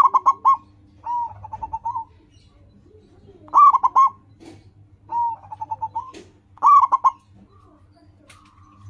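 Zebra dove (perkutut) cooing: short phrases of rapid, stuttering notes, repeated about every three seconds, with softer phrases between the louder ones.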